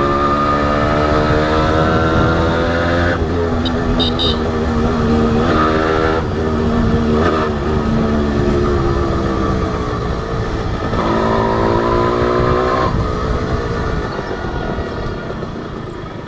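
Honda H100S two-stroke motorcycle engine running under way, its pitch climbing as it accelerates and dropping at each gear change about three, six and eleven seconds in, then easing off near the end.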